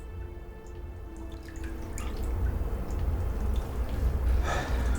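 Water dripping, scattered single drops, over a low rumble that grows louder toward the end.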